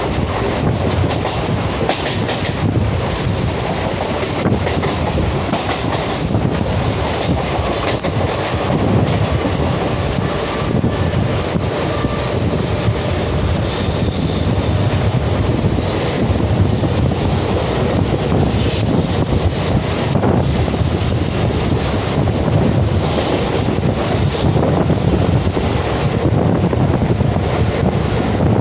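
Mumbai suburban local electric train running steadily on the Harbour line, a loud, unbroken mix of wheel and rail noise.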